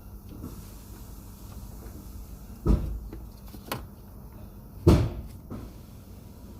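Two heavy thumps about two seconds apart, with a lighter knock between them.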